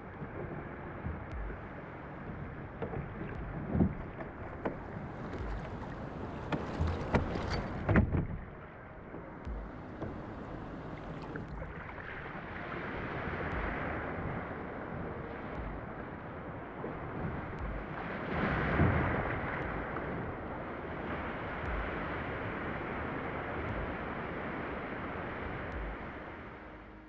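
Ocean water washing against a fishing kayak, with wind on the microphone, a few short sharp knocks near the start and a louder wash of water a little past the middle.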